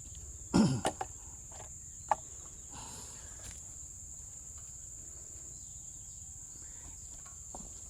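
Steady high-pitched insect chorus, with a short loud sound falling in pitch about half a second in and a few sharp clicks from handling the pole tool's metal parts while its head attachment is being changed.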